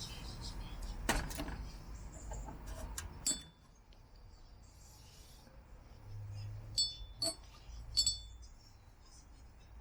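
Scattered sharp clicks and clinks of small hard objects, several of them leaving a brief high ringing, with three distinct clinks near the end.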